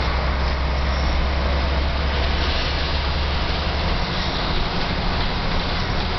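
Volvo B10M Mk II bus's underfloor straight-six diesel engine running under way, heard from inside the bus as a steady low drone over road and tyre noise. The low drone weakens about four seconds in.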